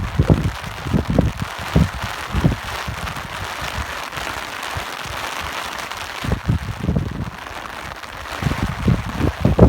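Steady rain hiss with wind blowing in irregular low gusts. The gusts ease off in the middle and pick up again near the end.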